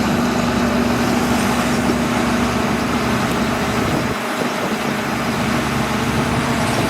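Bulldozer's diesel engine running steadily under load. Its low rumble drops away about four seconds in while the higher engine note carries on.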